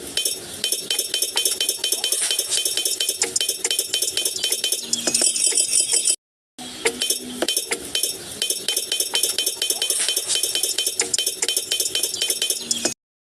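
Dense, rapid small clinks and rattles of small hard pieces knocking together, with two brief complete dropouts, about six seconds in and near the end.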